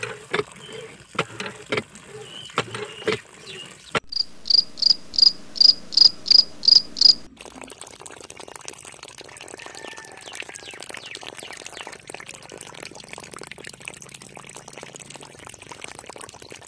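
Plastic clicking of a miniature hand pump's handle being worked, several clicks a second. After about four seconds a cricket chirps about three times a second, nine chirps in all, stopping suddenly. Then comes an even patter that fits water from the model pump trickling onto sand.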